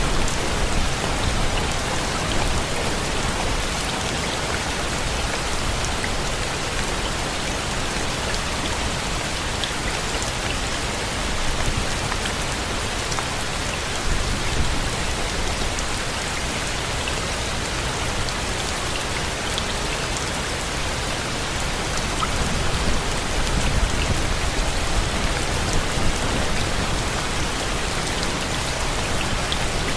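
Steady rain falling: an even, dense hiss with scattered individual drop ticks and gentle swells in intensity.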